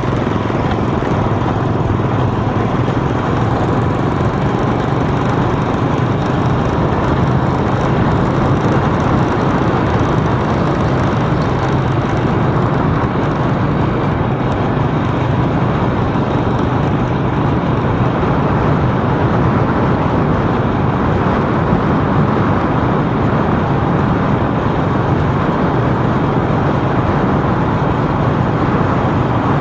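Steady, unbroken road noise of a vehicle being driven through city traffic: engine and tyre noise with a constant low hum.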